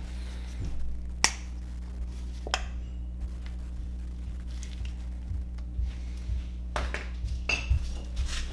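Sharp clicks and clinks of tools and parts being handled during brake work, the loudest about a second in and a cluster near the end, over a steady low hum.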